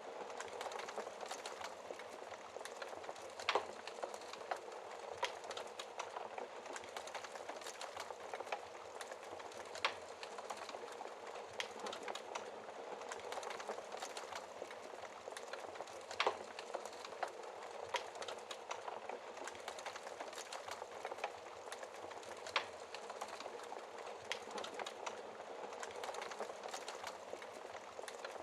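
Wood fire in a fireplace crackling steadily, with a sharp louder pop every few seconds.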